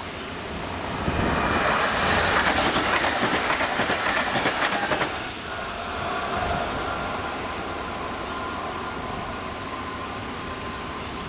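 Regional electric train passing close by over the level crossing, its wheels clattering over the rail joints. Loudest from about one to five seconds in, then it drops off quickly as the train moves away.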